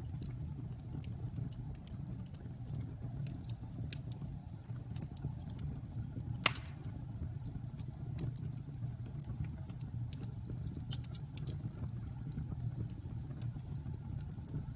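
Wood bonfire burning with a steady low rumble and scattered faint crackles, and one sharp, loud pop a little before halfway.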